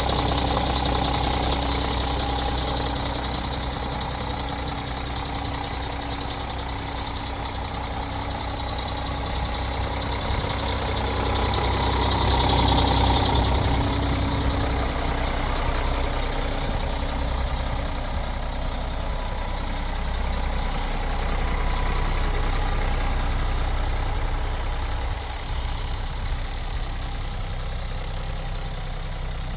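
Scania G410 truck's 13-litre six-cylinder diesel engine idling steadily, briefly a little louder about twelve seconds in.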